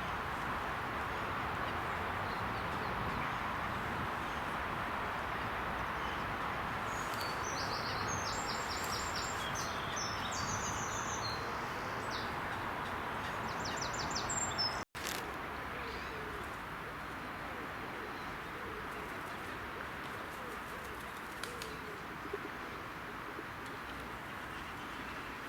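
A small songbird sings short, high, rapid trilling phrases over a steady background rush. After a brief cut about halfway through, only faint low calls and a few soft clicks are heard over the same rush.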